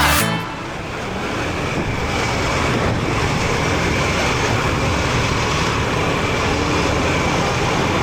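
Steady road noise of a motorcycle riding in city traffic, a rush of engine, tyres and passing vehicles. Music cuts off right at the start.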